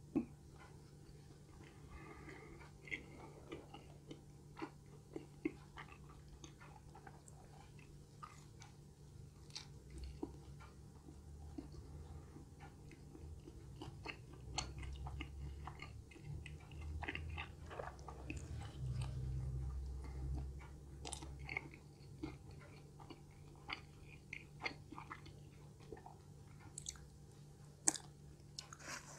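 Close-up chewing of soft, cheese-stuffed pizza crust, with many small scattered mouth clicks and a stretch of low muffled mouth sounds in the middle.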